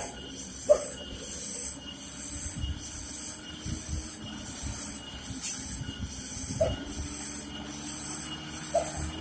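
Loaded heavy truck on a steep descent: a low engine rumble under a hiss that comes and goes about once a second, with a few short squeaks.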